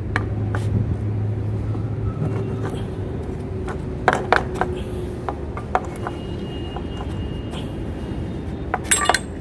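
Scattered sharp metal clicks and taps as the bolts are worked out of a bicycle's front shock absorber with an Allen key, ending in a cluster of ringing metallic clicks near the end. A steady low hum runs underneath, heaviest in the first couple of seconds.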